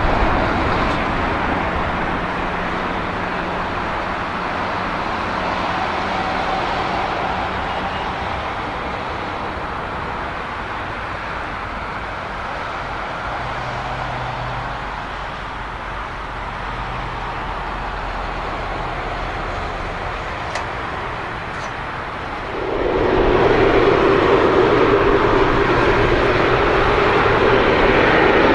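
Boeing 777-300ER's GE90-115B jet engines during landing: a steady rushing noise that turns sharply louder about three-quarters of the way through, with a strong hum added.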